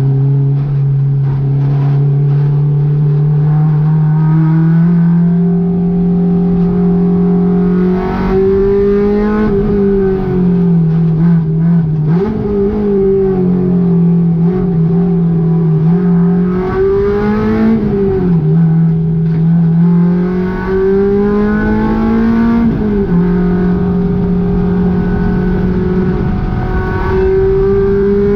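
Honda K20 inline-four engine running at high revs under load, its pitch climbing slowly at first, then dropping and rising again several times as the throttle is lifted and reapplied and gears change.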